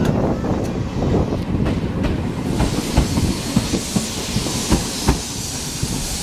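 Steam-hauled passenger train rolling, its wheels clicking over rail joints, with a hiss coming in about two and a half seconds in.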